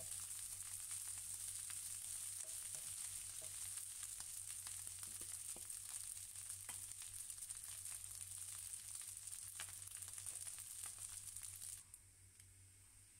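Fried rice sizzling and crackling in a hot nonstick frying pan, stirred with a wooden spatula at first. The sizzle cuts off suddenly near the end.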